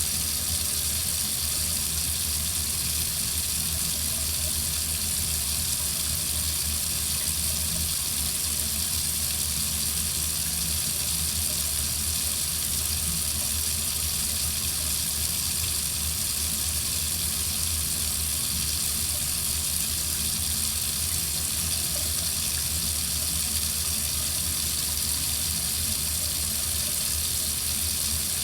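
Water running steadily from a faucet into a sink, an even, unbroken rush of water.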